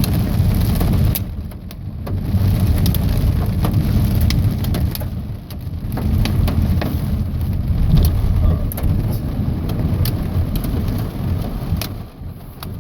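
Pea-sized hail pelting a vehicle in a thunderstorm: a dense patter of sharp, irregular ticks over a heavy low rumble.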